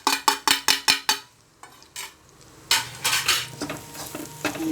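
Spoon stirring spice powders into fried onions in a cheenachatti (Kerala-style wok). It knocks against the pan in a quick run, about five or six taps a second, for the first second. After a short lull there is a burst of scraping a little past the middle.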